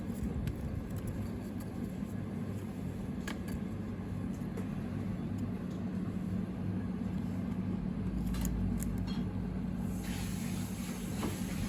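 Steady low machine hum with a few light clicks, and a brief swell of low rumble around eight to ten seconds in.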